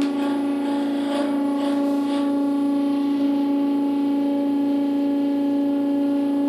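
Stepper motors of a small CNC machine whining at one steady pitch while driving an axis through a move. The tone starts sharply and stops near the end as the move finishes.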